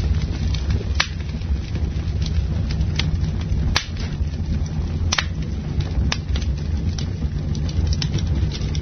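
Campfire crackling, with sharp pops of burning wood about once a second over a steady low rumble.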